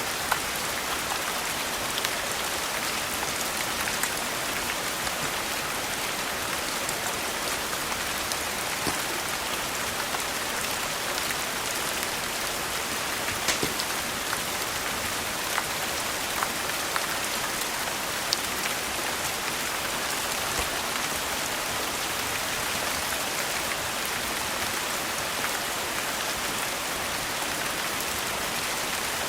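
Steady rain falling on a surface, an even hiss with sharp ticks scattered through it every second or two.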